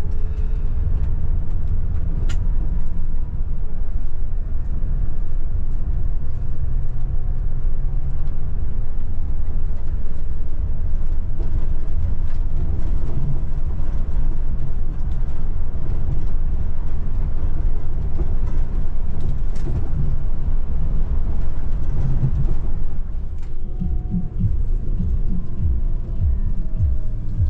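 Scania Metrolink multi-axle coach under way on the highway: a steady low rumble of engine and road noise.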